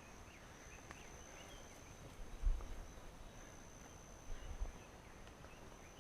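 Faint forest ambience: scattered short bird chirps over a steady thin high insect drone, with a couple of soft low wind buffets on the microphone about two and a half and four and a half seconds in.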